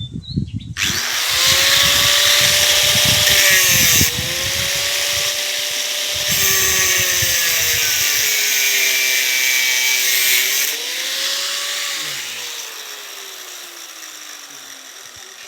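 Electric power cutter slicing through steel rebar: the motor whines up about a second in and a loud grinding rasp runs for about ten seconds, the pitch sagging as the disc bites. Then the cut ends and the motor winds down with a slowly falling whine.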